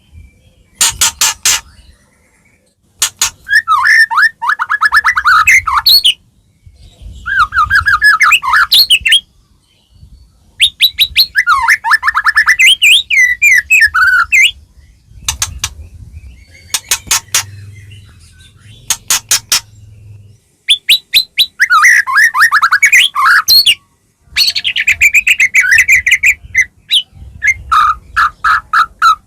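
White-rumped shama (murai batu) singing loudly in a string of phrases with short pauses between them: runs of fast, sharp repeated notes alternating with warbling phrases.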